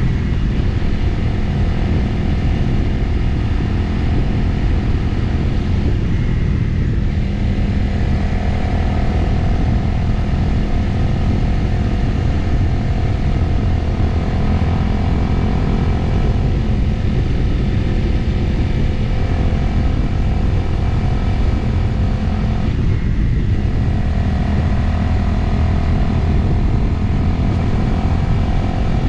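Motorcycle engine running at a steady cruise, recorded on board with wind rushing over the microphone. The engine note drops briefly twice, about six seconds in and again near the end, then carries on.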